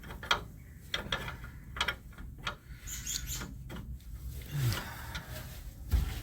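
Metal wrench working at a tight line fitting on a radiator, giving irregular sharp clicks and short scrapes as it is fitted and strained against the nut. The fitting has not yet broken loose.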